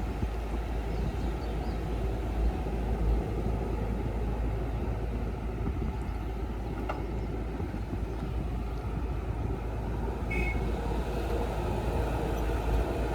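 Diesel engines of heavy earthmoving machinery running steadily, a deep low hum with a few faint clicks. A short high squeak comes about ten seconds in.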